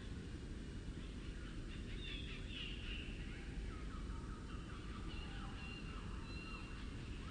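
Forest songbirds singing, slowed down about two and a half times, so the calls come out low and drawn out: scattered chirps, falling glides and longer held whistles. A steady low rumble of background noise runs beneath.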